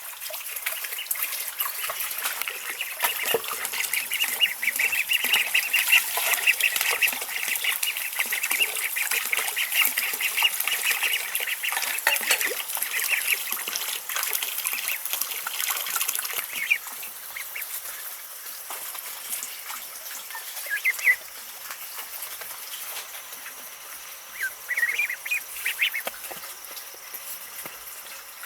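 A flock of ducklings peeping together in a dense chorus of high calls. It thins out a little past halfway, leaving scattered calls near the end.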